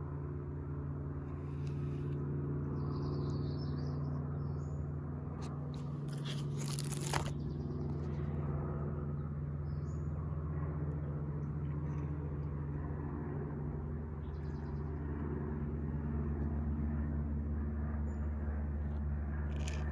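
A steady low mechanical hum, with small birds chirping faintly now and then and a brief rustle about seven seconds in.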